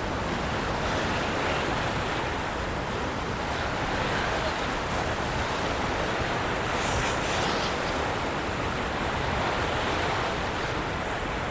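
Water rushing steadily from a dam's open spillway gates, an even unbroken rush, with some wind on the microphone.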